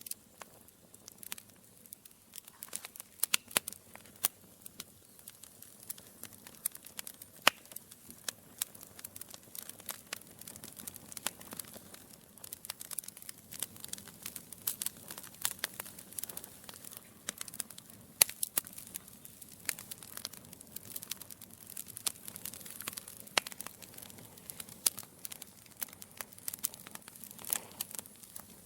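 Wood fire in a fireplace crackling: burning logs give irregular sharp pops and snaps, many a second, over a faint hiss.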